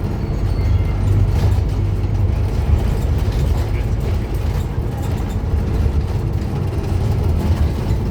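Scania N230UD double-decker bus's five-cylinder diesel engine running with a steady low drone.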